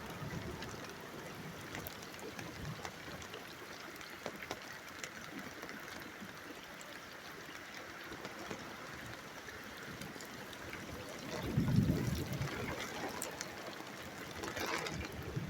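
Steady rain falling, with water trickling and scattered drip ticks. A brief low rumble comes a little before the end.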